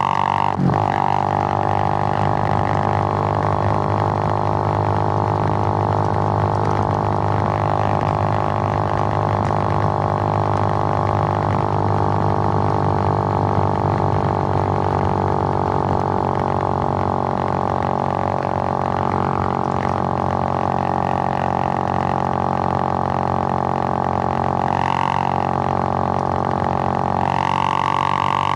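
Suzuki GN125's single-cylinder four-stroke engine running at a steady speed under way, a constant droning note, with a brief change in revs near the end.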